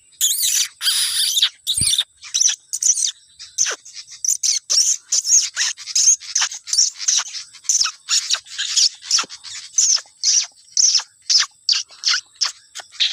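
Pied fantail (sikatan kipas) calling in quick, sharp, high chirps, several a second without pause, over a thin steady high insect whine.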